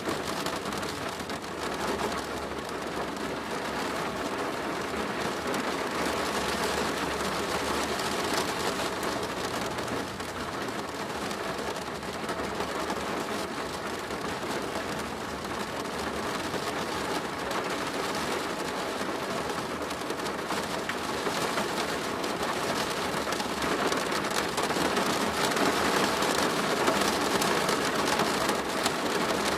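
Steady rain pattering on a plastic roof, growing slightly heavier near the end.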